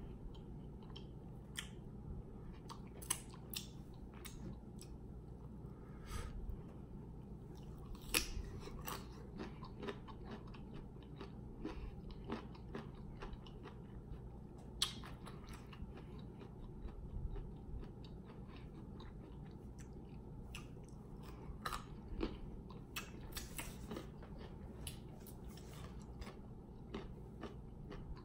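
Close-miked chewing and lip smacking while eating rotisserie chicken, with irregular short wet smacks and clicks over a low steady hum.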